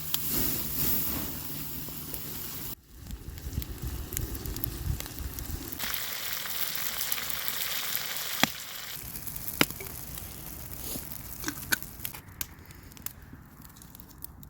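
Food sizzling and frying over a wood fire, with scattered sharp crackles and pops. The sound shifts abruptly several times, about 3, 6, 9 and 12 seconds in.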